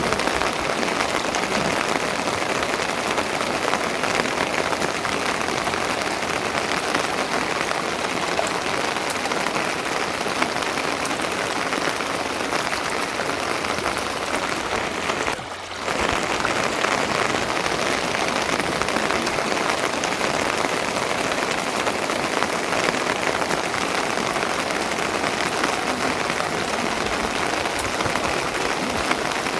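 Steady, dense rain falling, which dips briefly about halfway through.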